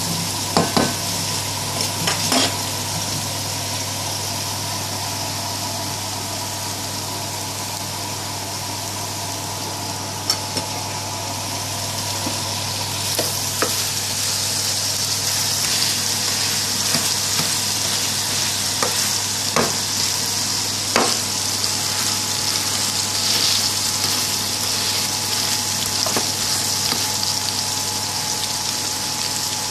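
Chips and beef burger patties frying in hot oil in pans: a steady sizzle, with a handful of sharp clicks and taps scattered through it and a steady low hum underneath.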